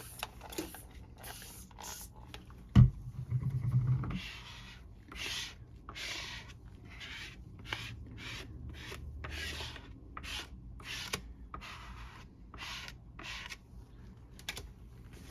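Hands rubbing and smoothing a damp, peroxide-soaked paper sheet down onto a comic book cover, in a series of short rubbing strokes, roughly one or two a second. About three seconds in there is a single sharp knock, the loudest sound.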